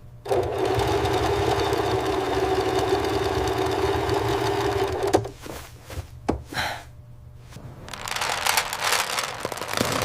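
A motor engine running steadily, dropping away about five seconds in with a few clicks, then building up again near the end.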